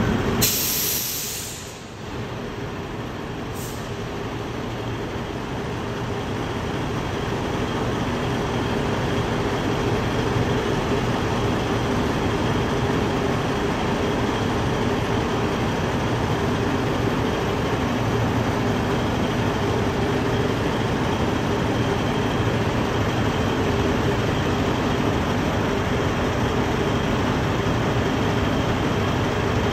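Garbage truck's diesel engine running steadily as the truck is manoeuvred, slowly growing louder. A brief high hiss comes about a second in.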